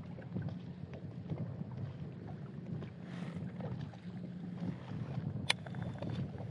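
Water lapping and knocking against a kayak hull, with wind on the microphone and many small knocks. A single sharp click comes about five and a half seconds in.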